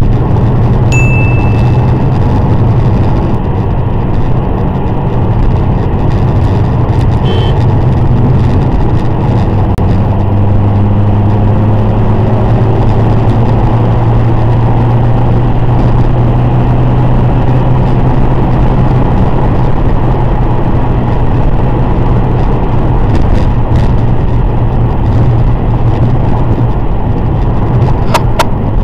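Subaru flat-four engine and road noise droning steadily inside the car's cabin at highway speed, rising slowly in pitch for several seconds midway. A short electronic beep about a second in.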